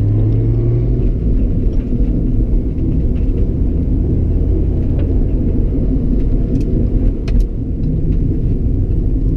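BMW E46 being driven, heard from inside the car: steady engine and road rumble, with a few faint clicks partway through.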